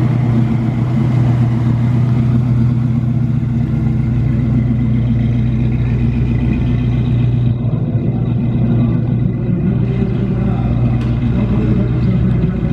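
A car engine running at a low, steady rumble, holding an even pitch.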